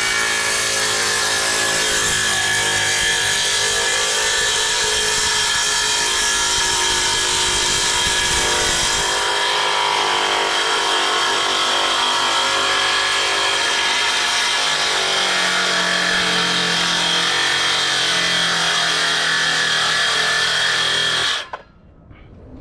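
Power saw, most likely a circular saw, running steadily through one long cut in wood, then shutting off suddenly about 21 seconds in.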